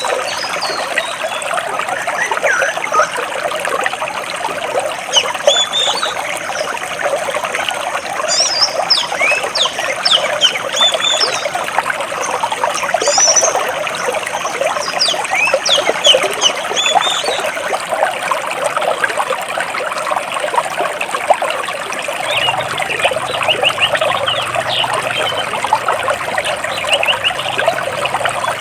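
Stream water splashing and gurgling steadily over and between large rocks, with small birds chirping in quick, scattered calls above it, thickest in the first half and again near the end.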